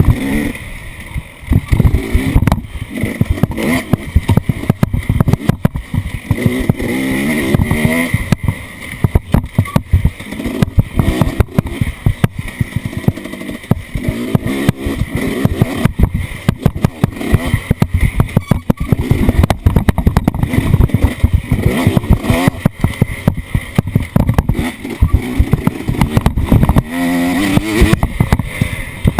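Off-road vehicle engine running and revving up and down a few times under heavy, uneven buffeting and rumble.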